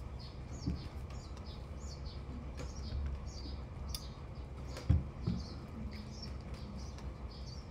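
A bird chirping repeatedly, short high chirps at about two a second, with a few soft knocks around one second in and about five seconds in.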